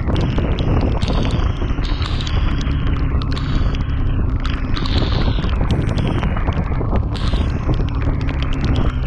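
Single-cylinder engine of a Yamaha FZS V3 motorcycle running at a steady pace, heard through heavy rushing wind noise on a chest-mounted action camera, with many sharp ticks throughout.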